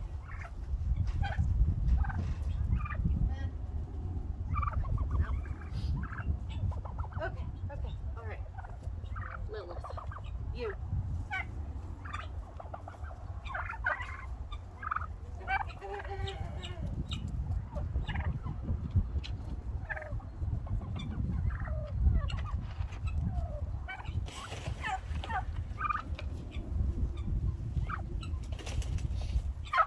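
A flock of domestic turkey hens calling, with many short calls scattered throughout over a low rumble.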